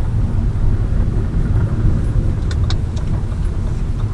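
Lada Vesta Cross cabin noise while driving: a steady low road and engine rumble. About two and a half seconds in come a few sharp clicks, the rear-door creak that silicone on the glass seals has not cured.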